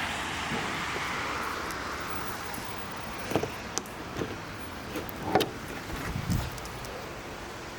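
Steady rushing noise like wind on the microphone, with a handful of short knocks and clicks between about three and six and a half seconds in.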